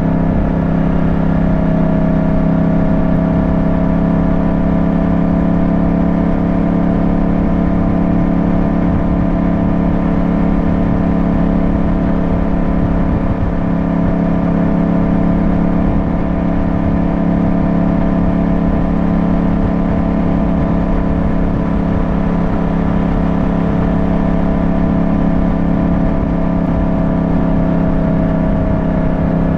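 Yamaha motorcycle engine running at a steady cruise, its pitch holding nearly constant, with rough wind noise on the microphone underneath.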